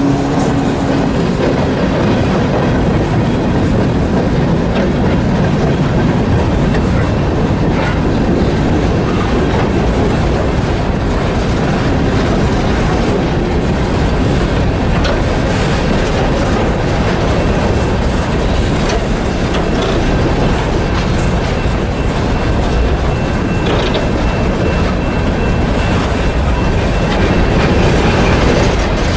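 Freight train cars rolling past at close range: a steady rumble of steel wheels with clickety-clack over rail joints. Faint high wheel squeal appears near the end.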